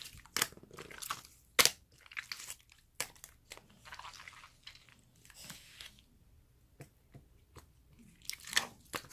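Clear yellow slime being squished and pressed by hand: a string of sharp clicking pops from trapped air, with soft squelches between them, the loudest pop about one and a half seconds in.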